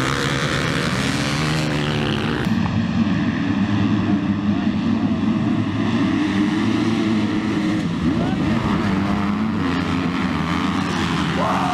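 Dirt bike engines running on a motocross track, a loud continuous engine drone. The sound changes abruptly about two and a half seconds in.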